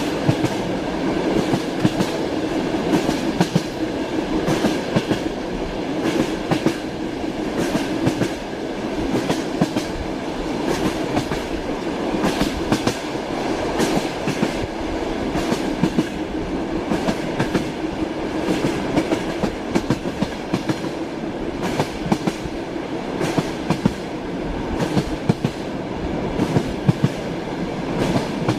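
Train wheels running over rails: a steady rumble with an irregular clickety-clack of the wheels knocking over the rail joints.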